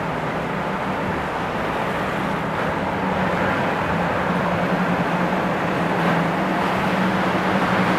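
Floodwater churning in a flooded street, with a steady low engine hum from a vehicle driving through it.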